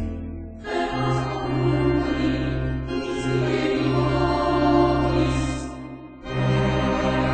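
Slow sacred choral music: voices singing sustained phrases over a low held bass. The sound fades briefly about half a second in and again near six seconds, each time before a new phrase enters.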